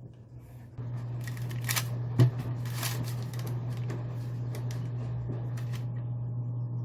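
A steady low mechanical hum with light clicks and rattling handling sounds over it, and one sharp knock about two seconds in.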